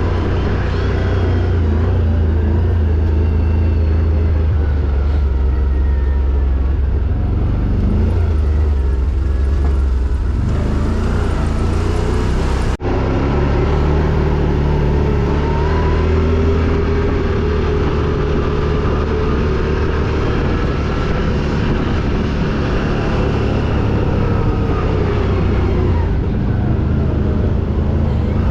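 ATV engine running steadily with a deep low rumble and some rises and falls in pitch, cut by a brief sudden dropout about 13 seconds in.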